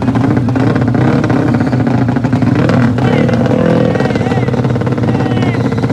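Motorcycle engines running loudly and steadily, with people's voices calling out over them.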